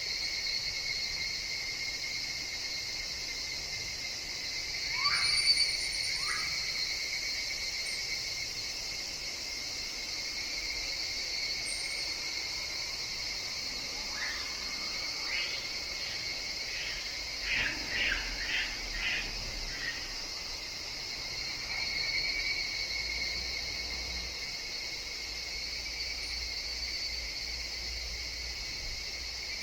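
Forest chorus of higurashi (evening cicadas) with a steady high drone of insects. In the middle comes a run of rapid, evenly repeated notes, a few per second. Earlier there are two short calls sliding downward.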